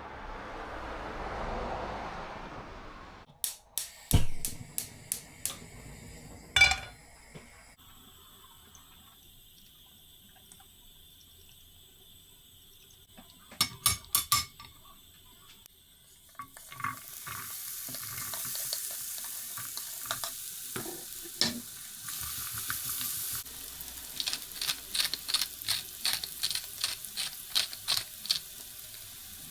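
Kitchen work: dishes and utensils clink a few times, then food starts sizzling in a pan about halfway through. Near the end there is a run of quick, regular stirring strokes against the pan.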